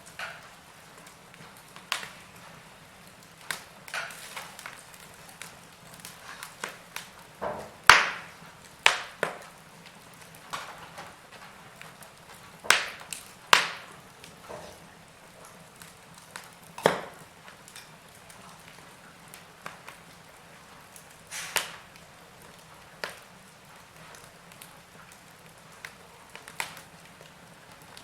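Wood fire crackling, with irregular sharp pops and snaps over a low steady hiss, a few of them loud.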